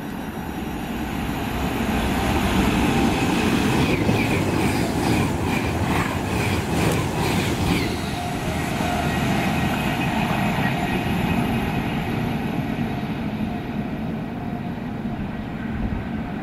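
Avanti West Coast Class 390 Pendolino electric train passing at speed. A rush of rolling noise builds over the first couple of seconds. Then comes a quick run of rhythmic wheel clacks, about three a second, before the rushing slowly eases.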